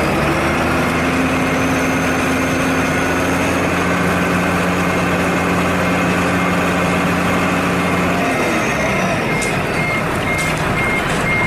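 Heavy diesel truck engine running steadily, the engine note dropping about eight seconds in. A reversing alarm then starts beeping at an even pace near the end.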